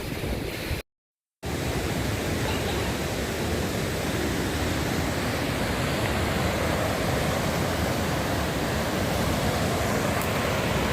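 Large waterfall with a steady, even roar of falling water. The sound cuts out completely for about half a second, roughly a second in, then resumes unchanged.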